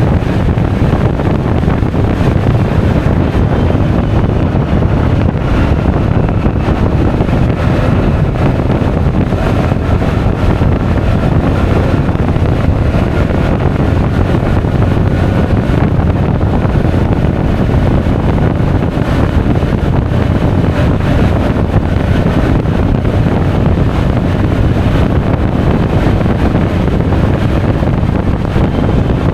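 Steady wind noise buffeting an action camera's microphone while riding a Honda Forza 350 scooter, with the scooter's engine running underneath.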